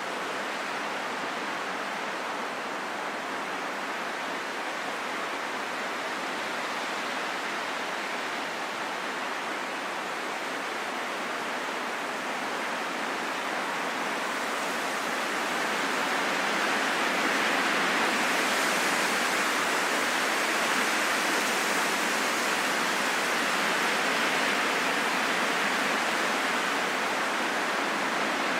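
Strong, steady wind rushing with no whistling tones. About halfway through it swells louder and brighter, then holds there.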